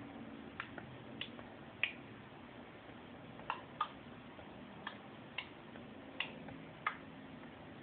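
Faint, light clicks, about ten of them at uneven intervals, over a quiet steady background hum.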